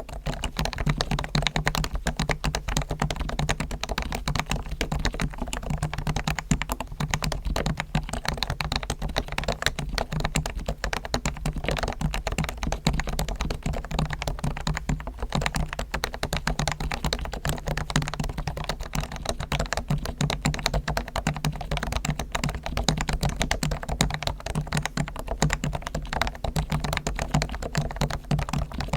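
Realforce R1 Topre electro-capacitive keyboard, fully lubricated with Krytox on springs, sliders and stabilizers, being typed on in a rapid, continuous stream of soft keystrokes.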